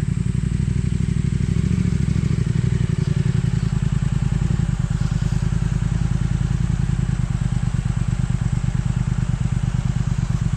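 Off-road motorcycle engine running steadily at low speed, a fast even throb.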